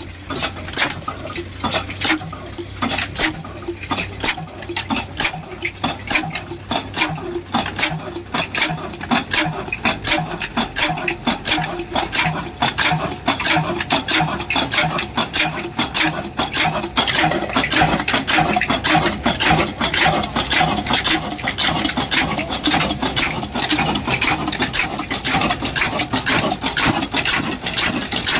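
Old single-cylinder 26 hp, 300 rpm stationary engine running up after starting, with a fast, even mechanical clatter. The beats come closer together and grow louder from about halfway through as it gathers speed.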